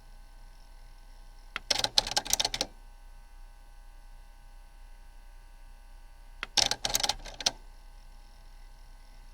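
Two bursts of rapid, clattering mechanical clicks, about five seconds apart, over a faint steady hum.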